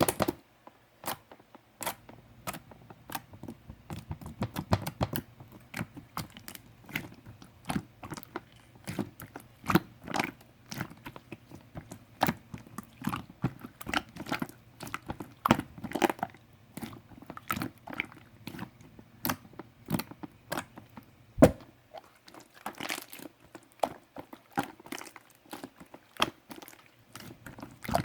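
Irregular crunchy clicks and crackles, several a second, with a sharper single click about two-thirds of the way through.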